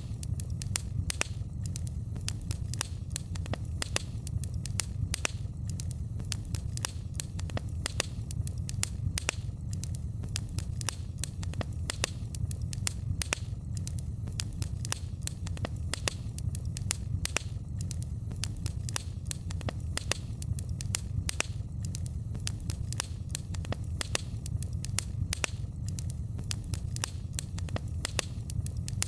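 Wood fire crackling in a fireplace: many sharp, irregular pops and snaps several times a second over a steady low rumble of the flames.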